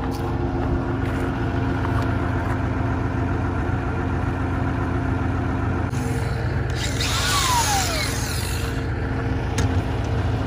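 A power tool runs for about three seconds, starting about six seconds in, its pitch falling as it winds down. Under it is a steady low machine hum.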